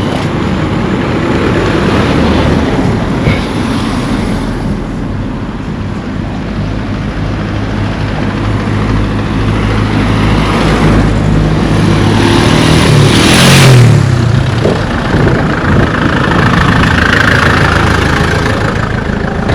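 Road traffic: vehicle engines running close by, with one vehicle passing near, its noise swelling and fading about two-thirds of the way through.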